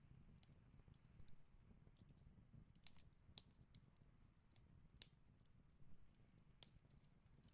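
Near silence with faint, scattered clicks and rustles of paper pattern pieces being handled and slid together on a table, a couple of slightly sharper ticks about three and five seconds in.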